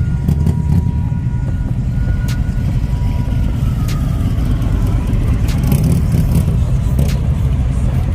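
A car engine running loudly and steadily.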